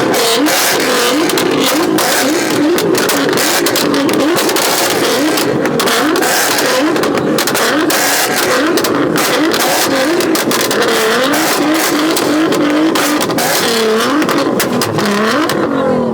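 Twin-turbo Nissan GT-R held on its two-step launch limiter, revs bouncing rapidly up and down with a constant stream of sharp exhaust pops and bangs. Near the end the revs drop away in a falling sweep.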